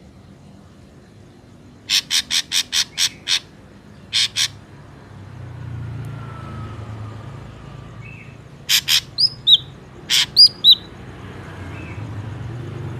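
Ashy drongo calling: a quick run of seven harsh, rasping notes, then a pair just after. After a pause come more harsh notes mixed with short, high, down-slurred whistles. A low rumble is in the background.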